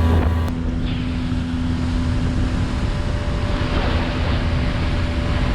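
Boat motor running steadily as the boat travels across the water.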